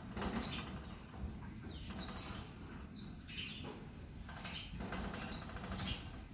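Small birds chirping: short, high chirps repeated every second or so over faint outdoor background noise.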